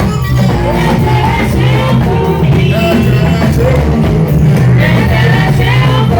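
Live praise music: a band with a strong, steady bass line playing under singing.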